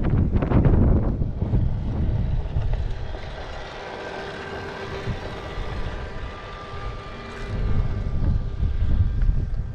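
Motorcycle engine running at a steady speed, its note showing as a few steady tones, with wind buffeting the microphone heavily at the start and again near the end.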